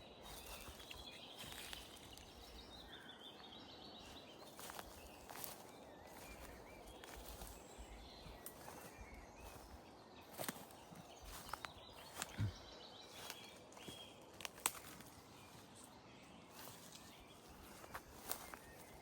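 Faint footsteps through woodland with irregular sharp cracks and knocks, the loudest about two-thirds of the way in, and faint bird chirps in the background.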